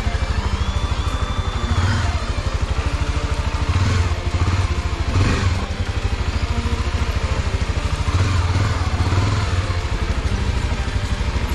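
Single-cylinder trail motorcycle engine running at low revs with an even pulsing beat, swelling briefly a few times as the throttle is opened.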